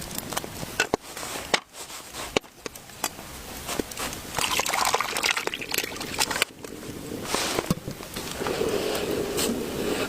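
Liquid sloshing and pouring, with scattered sharp clicks.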